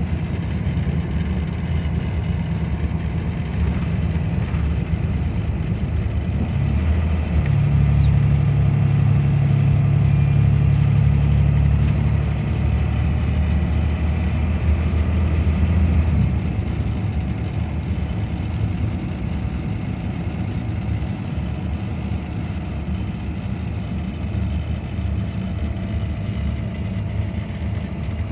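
Scania DC9 five-cylinder diesel engine of a Scania K94 bus running. Its note grows louder from about seven seconds in as it pulls harder, then eases back after about sixteen seconds.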